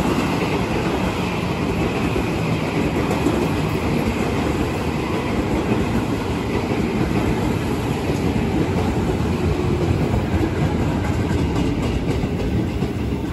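JR 205 series electric commuter train running past along the platform, its wheels rumbling steadily on the rails as car after car goes by. The sound begins to ease near the end as the last car passes.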